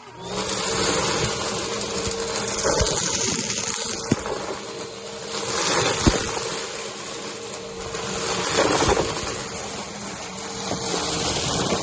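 Upright vacuum cleaner motor switching on and running with a steady whine and hum. The sound swells with each push-and-pull stroke, about every three seconds, as it sucks up crunchy cereal from carpet, with scattered sharp ticks of debris rattling up through it.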